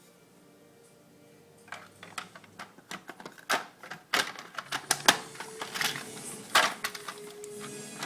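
Toy trains and track pieces being handled, a quick irregular run of sharp plastic clicks and knocks starting about two seconds in. A faint steady hum sounds for a couple of seconds in the middle.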